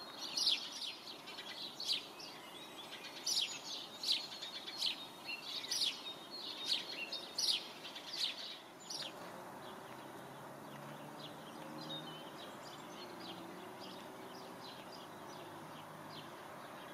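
Small birds chirping: a busy run of short, high, quickly falling chirps over the first nine seconds or so, thinning out and growing fainter after that.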